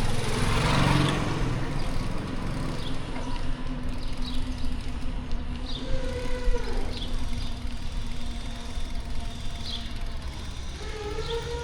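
City street traffic, with a vehicle passing close by in the first second and a steady engine hum running under it.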